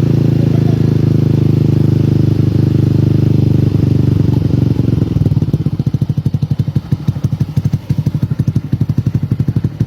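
Yamaha Mio M3 scooter's 125 cc single-cylinder engine running through a DOS aftermarket exhaust. It holds a steady drone for about the first four seconds, then settles into a lumpier idle in which the separate exhaust pulses can be heard.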